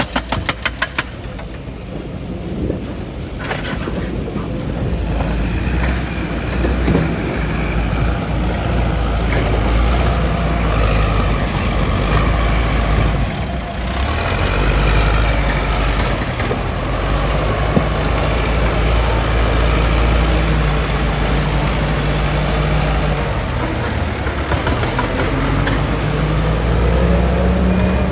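Heavy machinery engine running steadily under load, with mechanical clatter over it. A quick rattle of sharp knocks in the first second.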